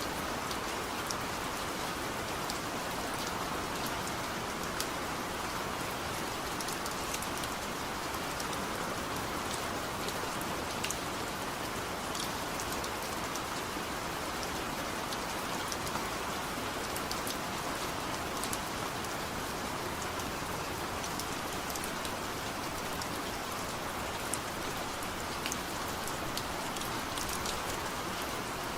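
Heavy rain falling steadily, a constant hiss with the patter of individual drops hitting a surface.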